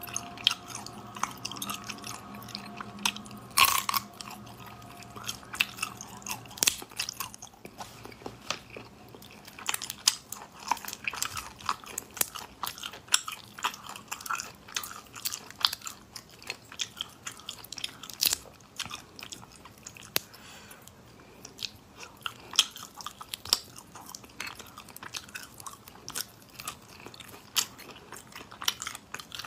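Close-miked eating sounds: a person chewing and biting saucy braised seafood, with many sharp wet clicks and smacks of the mouth and of the pieces being pulled apart by hand.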